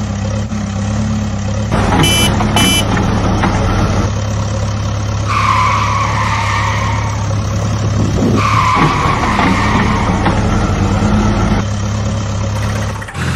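Small electric motor of a homemade toy tractor running with a steady hum. There are two short beeps about two seconds in and two longer tones around the middle.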